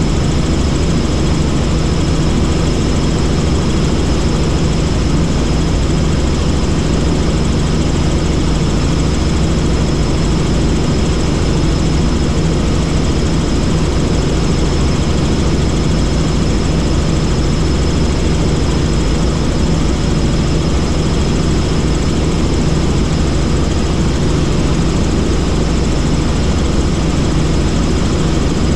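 Helicopter in flight: steady, loud rotor and engine noise with a deep drone and a thin high whine, unchanging throughout.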